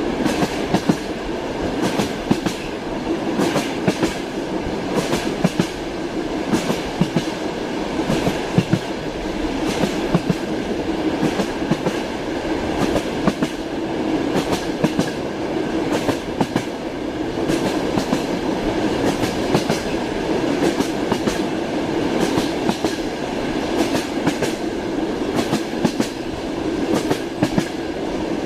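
Train wheels clacking over rail joints, heard from inside a moving passenger train compartment, over a steady rolling rumble. The clacks come irregularly, often in pairs.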